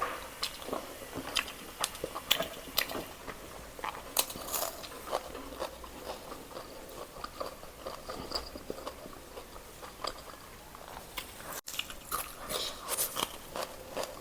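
Close-miked eating: a person biting and chewing, with many irregular short, sharp crunches.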